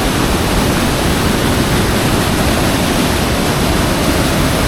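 Waterfall: a loud, steady rush of water pouring over rocks.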